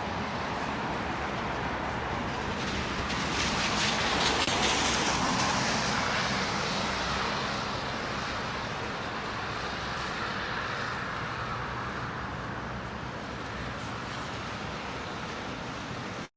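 Street traffic noise: a vehicle passes close by, its tyre and engine noise swelling about three to six seconds in, then fading back into the steady traffic hum. The sound cuts off suddenly at the end.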